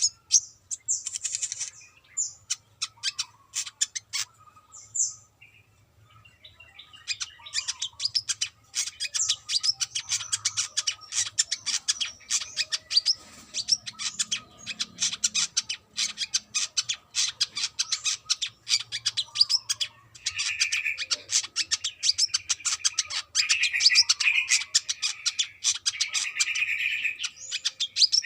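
Brown-throated sunbird (kolibri kelapa) singing in a rapid, continuous stream of high chips and twitters. It pauses briefly after a few seconds, and a lower, buzzier trill joins about two-thirds of the way through.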